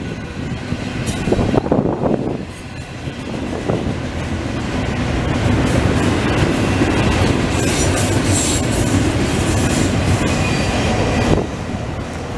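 Norfolk Southern double-stack container train's freight cars rolling past at close range, a steady rumble of wheels on rail. The noise drops off sharply near the end as the last car goes by.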